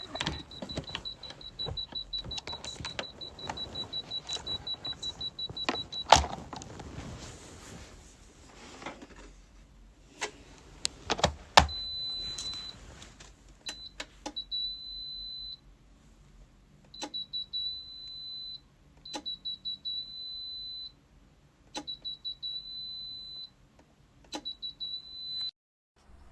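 Dreo ceramic space heater's electronic buzzer beeping on and on while the heater will not turn off. It starts as a rapid string of high beeps for about six seconds. After a few knocks, it sounds again and again as quick beeps that run into a long held tone.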